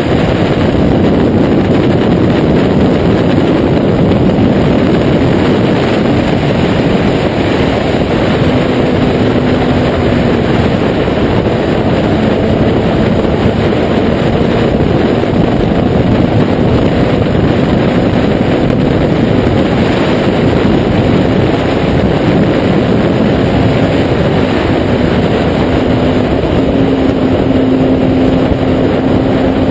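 Kawasaki Z800's inline-four engine through a Taylor Made Firetong aftermarket exhaust, running at a fairly steady engine speed with a dense rushing noise over the engine note.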